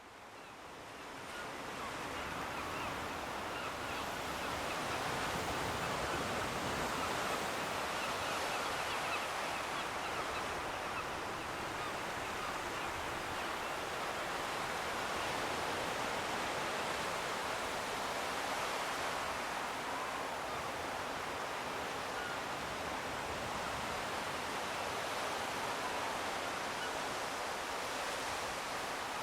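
Steady seaside ambience: a continuous wash of distant surf on the coast. It fades in over the first two seconds and then holds even.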